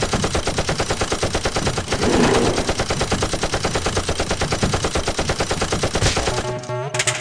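Automatic gunfire: a fast, steady stream of shots, with a louder burst about two seconds in. The firing stops about six seconds in.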